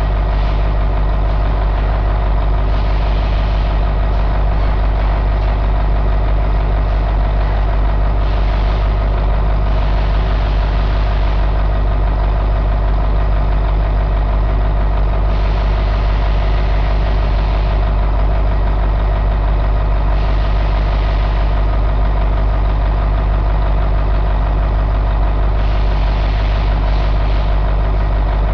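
Caterpillar 3208 V8 diesel engine idling steadily.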